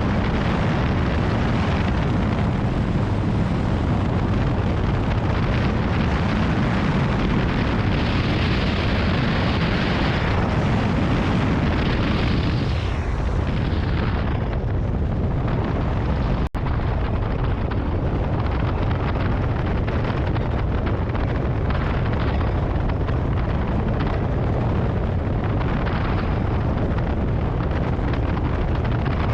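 Strong wind buffeting the microphone, a loud, steady, rumbling rush. It breaks off for a split second about sixteen seconds in.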